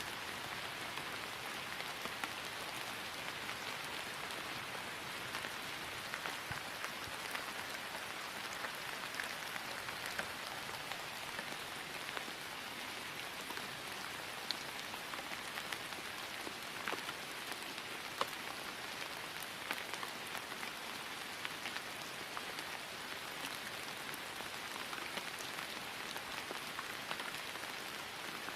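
Steady rain falling on grass: an even hiss of rainfall with many separate drops ticking close by.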